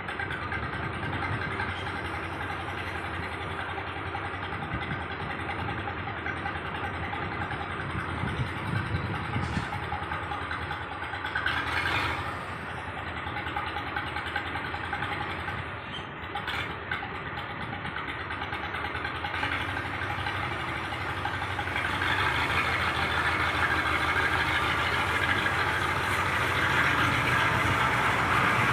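Tractor engine running steadily as it drives a rotary tiller through the soil. The noise grows louder in the last third, with a couple of brief knocks around the middle.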